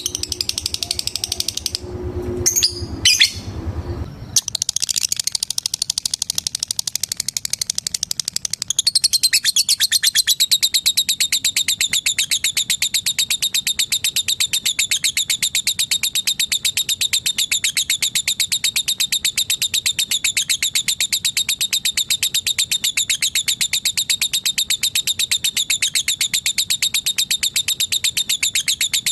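Lovebird giving a long "ngekek" call: a rapid, unbroken chattering trill of short, high chirps. It breaks off about two seconds in, with a few lower knocks and calls. It then resumes and turns louder and continuous about nine seconds in.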